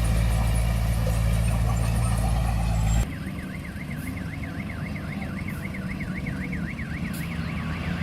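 Bulldozer's diesel engine running steadily, cutting off abruptly about three seconds in. A warbling electronic alarm then sounds, sweeping up and down about four times a second.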